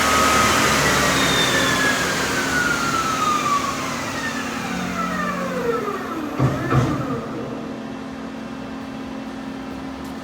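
Doosan Puma 400LC CNC lathe spindle winding down: a whine that falls steadily in pitch over about six seconds, with a couple of knocks as it comes to a stop. A steady hum from the machine carries on afterwards.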